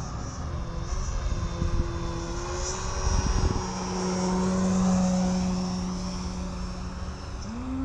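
Electric motor and propeller of a 67-inch SkyWing ARS 300 RC aerobatic airplane (DualSky GA2000R motor) humming in flight at a steady pitch, which steps up near the end as the throttle is opened. Wind rumbles on the microphone underneath.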